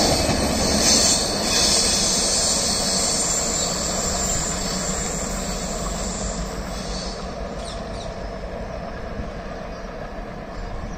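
The tail of a Rajdhani Express passenger rake running past on a curve: coach wheels rolling and clattering over the rails with a high wheel squeal. The sound fades steadily as the last coach recedes, and the squeal dies away about six to seven seconds in.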